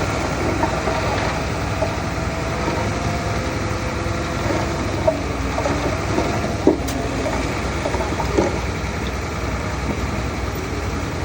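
Heavy diesel earthmoving machinery running steadily, with a few short sharp knocks; the loudest comes about two thirds of the way through.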